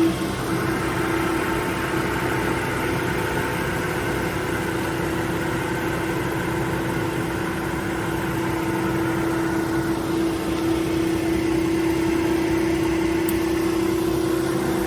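Atlas Copco 3.7 kW oil-free scroll compressor running steadily just after start-up, pumping its empty air receiver up toward 8.5 bar. It makes a steady hum with one constant mid-pitched tone.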